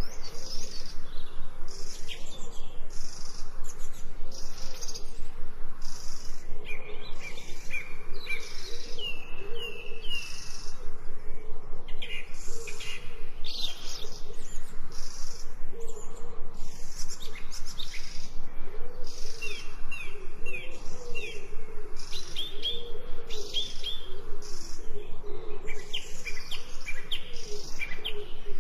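Nature ambience of birds calling with short whistled notes over a steady pulsing insect chirp. A lower warbling call joins in the second half.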